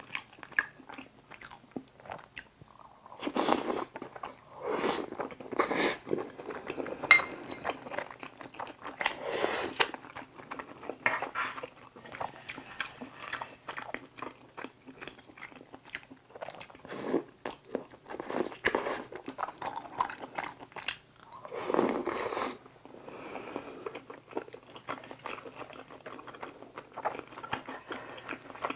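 Close-miked eating sounds: chewing and biting on tteokbokki's chewy rice cakes and fish cakes in thick sauce, with small clicks of a wooden spoon against the bowl. Louder bursts of chewing come a few seconds in, near ten seconds, and at about twenty-two seconds.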